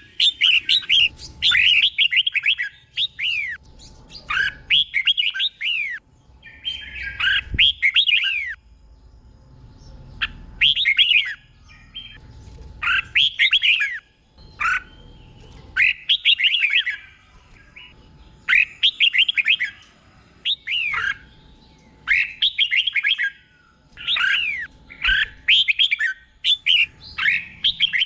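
Red-whiskered bulbul singing: short, quick warbled phrases of downward-sweeping notes, repeated every second or two.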